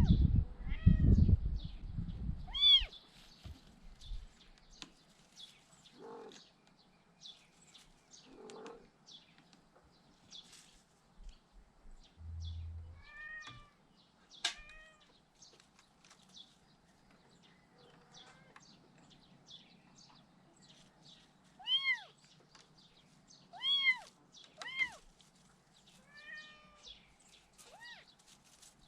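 Month-old kittens mewing: short, high, thin cries that rise and fall, coming singly and in little runs of two or three with pauses between. Loud low rumbling and knocking in the first few seconds.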